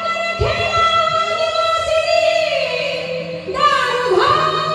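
A woman singing a Marathi bharud (devotional folk song) in long, held notes that glide up and down, over a steady low drone.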